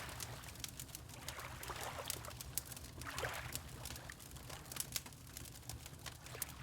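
Water lapping in soft washes every couple of seconds, over the steady crackle and pop of a wood fire in a fireplace.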